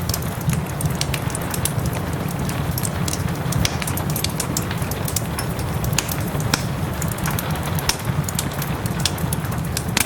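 Wood fire crackling in a fireplace, with frequent sharp pops and snaps over a steady low rumble of flames and soft rain.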